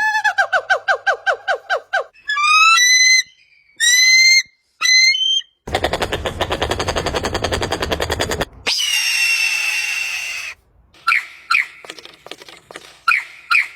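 A string of different animal calls cut one after another. First comes a fast series of falling chirps, then rising whistled calls, a rapid rattling trill, one long falling screech, and finally a few short, sharp squeaks.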